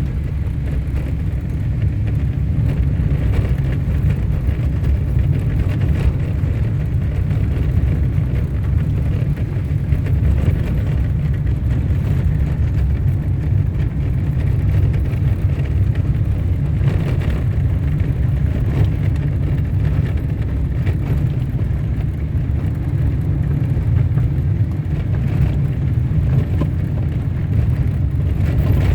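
A car driving along a dirt road: a steady low rumble of engine and tyres on the unpaved surface.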